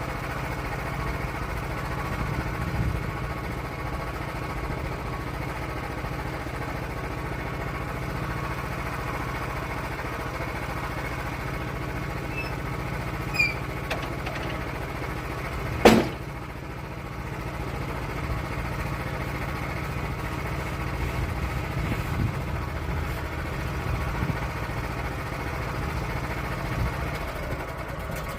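Bandsaw sawmill's engine running steadily while milling an oak log, with a sharp knock about halfway through.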